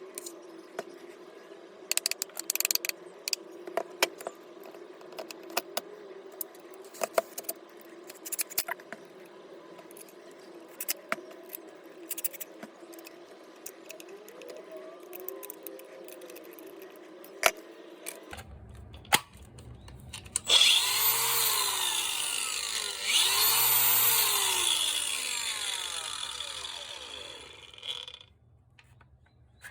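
Scattered clicks and taps of parts being handled, then a cordless disc grinder run twice near the end, each run a loud high whine that winds down.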